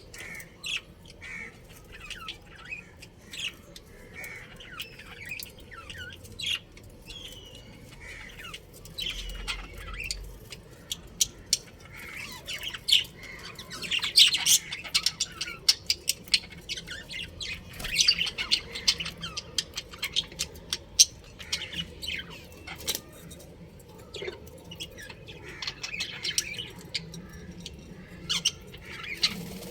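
Budgerigars chirping and squawking in a steady stream of short, overlapping calls, busiest past the middle.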